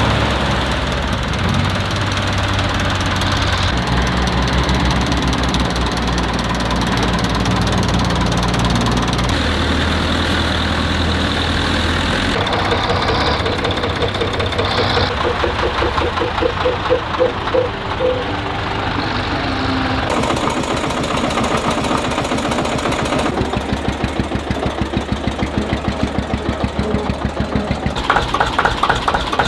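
Tractor engines running and idling as tractors drive in, heard in several short clips one after another; the engine note changes abruptly at each cut.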